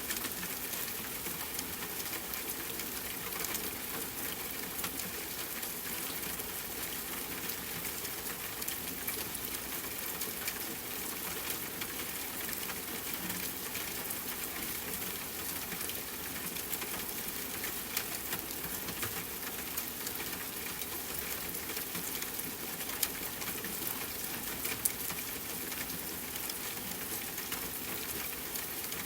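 Steady rain hissing, mixed with the crackle of a campfire: a dense patter of drops with scattered small pops, and a couple of sharper pops late on.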